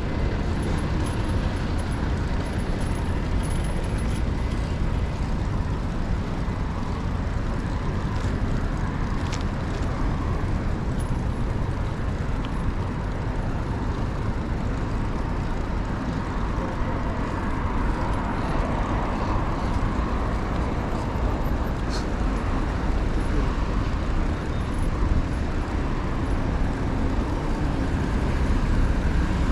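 Steady city street traffic noise, cars passing, with a constant low rumble.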